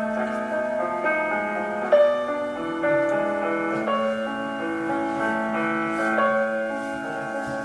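Solo piano playing a slow, lyrical classical melody over sustained bass notes, with a few sharper struck notes.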